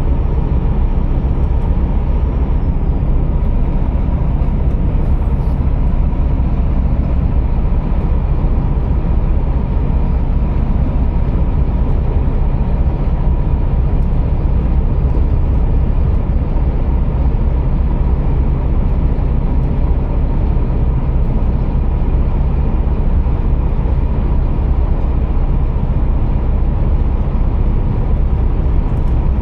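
Scania R480 truck's 13-litre inline-six diesel running steadily: an even, low engine drone with a thin steady whine above it and no change in pace.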